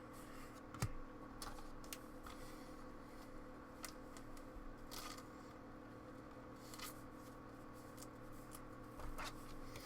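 Trading cards and pack wrappers being handled: faint scattered clicks and short rustles, with a sharper click a little under a second in and another near the end.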